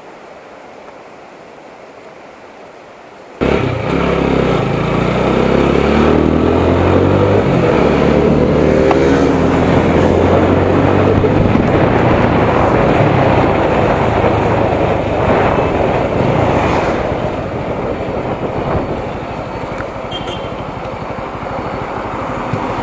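Motorcycle engine pulling hard, its note climbing and shifting for several seconds, with wind rushing over the microphone. It cuts in suddenly a few seconds in, after softer wind noise, and gives way to steadier wind and road noise.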